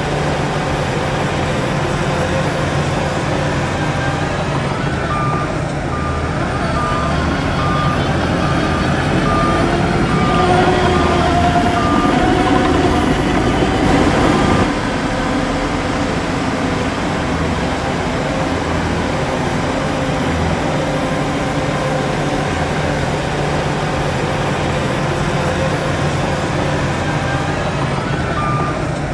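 Heavy diesel earthmoving machinery running steadily, with a reversing alarm beeping at an even pace from about five seconds in. The engine grows louder, then both the engine noise and the beeping drop off suddenly about halfway through; the beeping starts again near the end.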